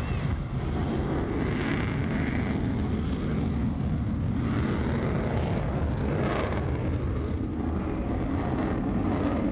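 F-14 Tomcat's twin jet engines running, a steady deep rumble with a few swells in the higher hiss.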